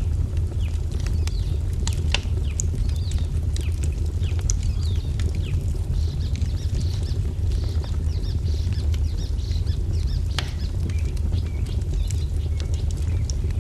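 Wood fire crackling with scattered sharp pops over a steady low rumble, while small birds chirp in quick repeated notes, busiest in the middle.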